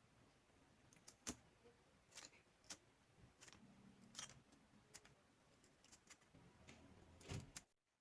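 Faint, scattered light clicks and taps at an uneven pace over low background noise, cutting off suddenly near the end.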